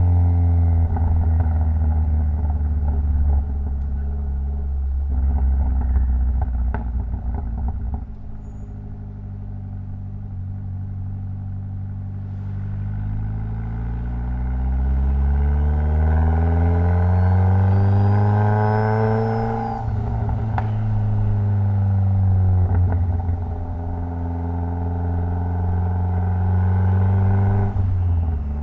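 Mitsubishi Lancer Evolution X's turbocharged 2.0-litre four-cylinder engine running. It holds a steady note, eases off about eight seconds in, then accelerates with a rising pitch and a faint high whine climbing alongside. The note drops abruptly about twenty seconds in and settles back to a steady hum.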